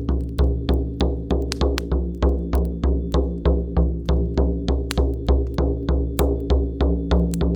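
Music: a shamanic frame drum beaten in a steady rhythm, about three strokes a second, each stroke a deep boom, over sustained low droning tones.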